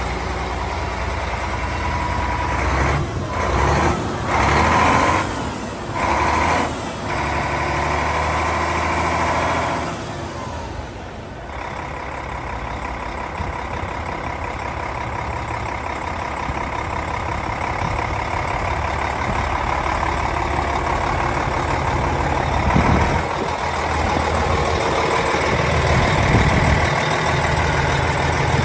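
A Hyundai tractor unit's 12.3-litre six-cylinder diesel engine running steadily, with several short, louder bursts of noise between about three and seven seconds in and a brief quieter dip around ten seconds.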